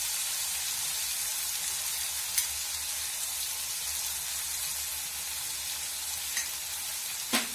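Steady sizzling of chana dal and moong dal frying with onion in an aluminium kadai. A few sharp clicks come over it, one about two seconds in and a louder pair near the end.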